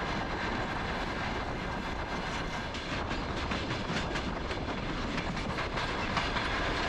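An old Soviet-era loco-hauled passenger train running along the track: a steady rumbling noise with faint, irregular clicks from the wheels and rails.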